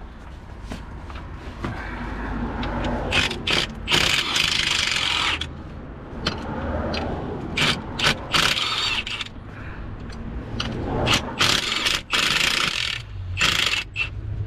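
Socket ratchet clicking in repeated bursts as bolts are turned, with sharp metal clicks and knocks between.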